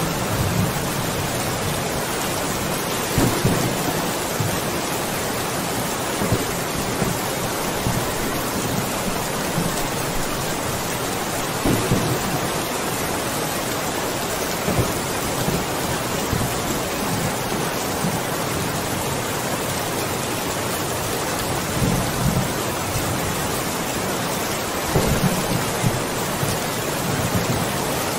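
Steady heavy rain, a dense even hiss, with a few brief low rumbles swelling and fading.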